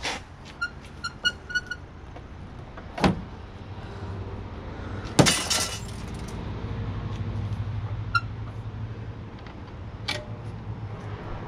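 Small metal parts clinking and clattering as a tankless water heater is taken apart: a quick run of ringing metallic clinks early, a knock about three seconds in, and a louder clatter a little after five seconds. A low steady hum runs under it from about four seconds on.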